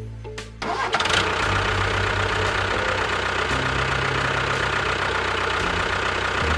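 An engine starts about half a second in, then runs steadily.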